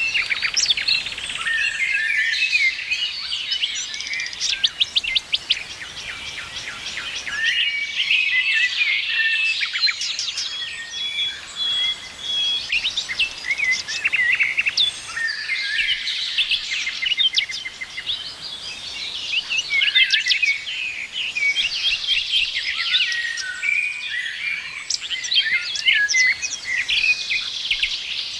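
Several songbirds singing and calling at once: a dense, continuous chorus of chirps, rapid trills and short whistles.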